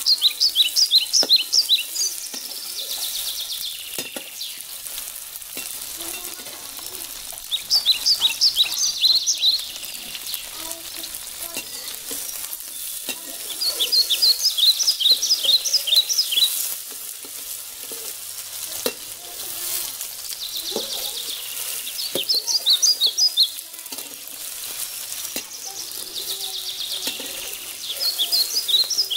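Chopped okra sizzling in oil in a steel wok, stirred and scraped with a metal spatula. Every six seconds or so comes a loud run of quick, high-pitched chirps, about four a second, lasting two to three seconds.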